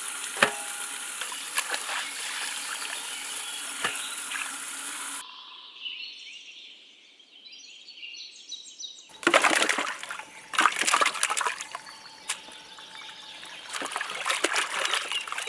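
Water splashing and trickling in irregular bursts, loudest in the second half after a sudden cut to a quieter stretch.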